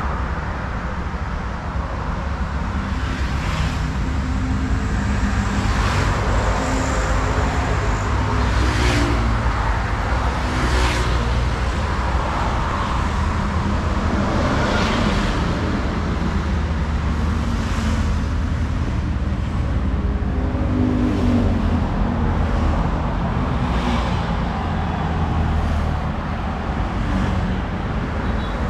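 Road traffic: a steady low rumble of engines, with vehicles passing one after another every few seconds.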